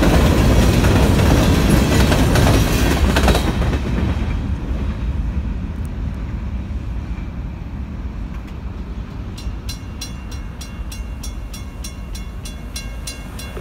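Freight train boxcars rolling past at a road crossing, a loud rumble and rattle of wheels on the rails that drops away suddenly about three and a half seconds in as the last car clears, leaving a faint low rumble. Near the end a rapid ringing starts, about four strikes a second.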